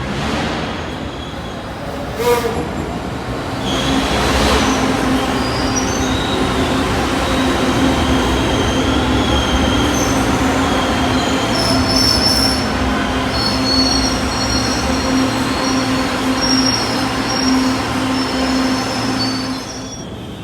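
LRT Line 2 light-rail train running on the track. The rail noise builds a few seconds in and holds, with high wheel squeal over the second half, then drops off shortly before the end.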